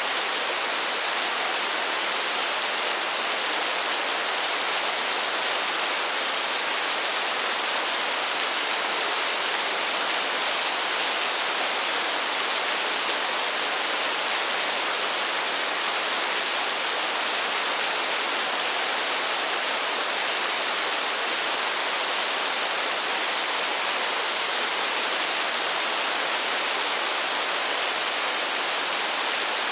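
Steady rain falling, an even hiss of water that does not change in level, with no single drops or thunder standing out.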